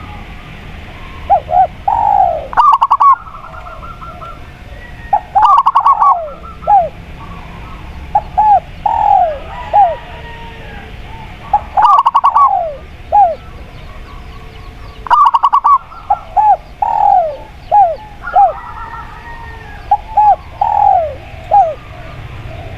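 Spotted dove and zebra dove cooing: repeated phrases of short arched coo notes, broken four times by a burst of rapid pulsed notes, over a steady hiss of natural ambience.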